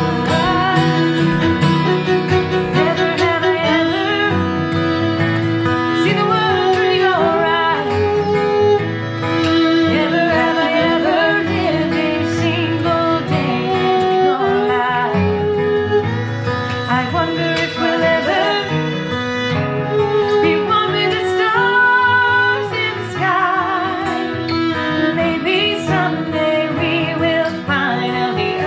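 Acoustic guitar and violin playing a song together: fingerpicked guitar under sustained violin lines with vibrato.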